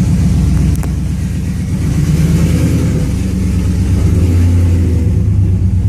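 Car engine running through Pacesetter headers and unmuffled dual 3-inch straight pipes with an X-pipe, dumped at the rear axle. The note dips briefly about a second in, then shifts in pitch a couple of times.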